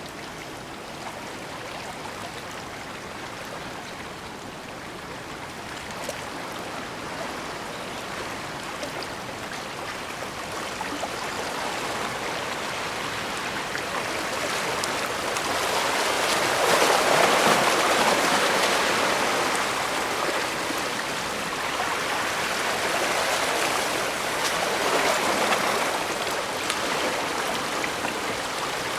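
Bay water washing and splashing: a steady rushing that builds to a peak about halfway through, then ebbs and swells again.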